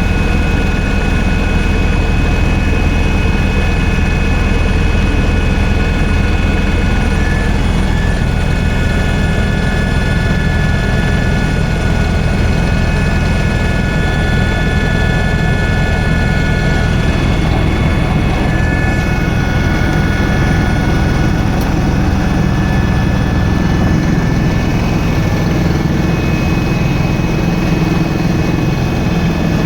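Helicopter engine and rotor running steadily, a constant low drone with a high turbine whine over it.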